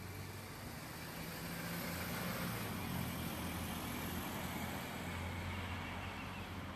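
A motor vehicle going past, growing louder to a peak about three seconds in and then fading, with a low engine hum under the tyre noise.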